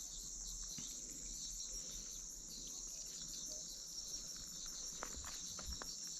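A steady, high-pitched chorus of insects, likely crickets, trilling in fine rapid pulses, with a few faint knocks about five seconds in.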